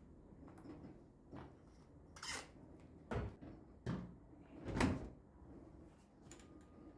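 A drawer being slid and things in it handled: a few separate knocks and scrapes, the loudest just before five seconds in.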